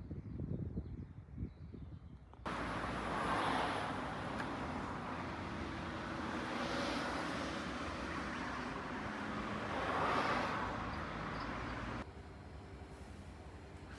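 Street traffic noise that starts and stops abruptly, with two vehicles swelling past, one soon after it begins and another near its end.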